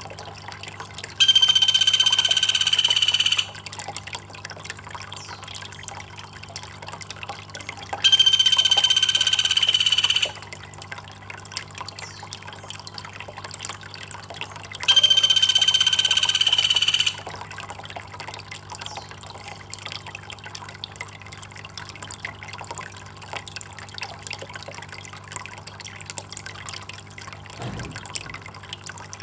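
Water trickling steadily under a loud buzzing call that comes three times, each about two seconds long and held at one pitch.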